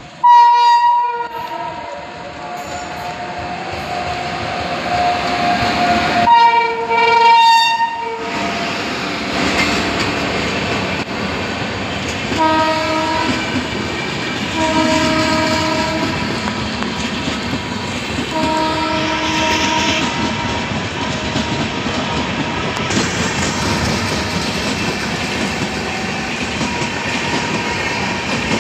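An electric locomotive's horn sounds two loud blasts, one right at the start and one about six seconds in. The passenger coaches then rumble and clatter past steadily over the rails, with three fainter horn notes in the middle.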